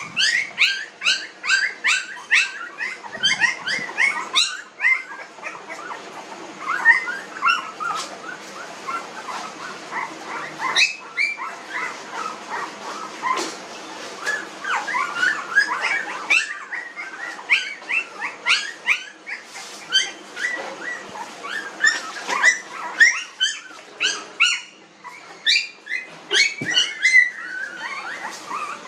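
Young Pomeranian puppies whining and squeaking: a continuous stream of short, high-pitched cries, many falling in pitch, several a second and often overlapping.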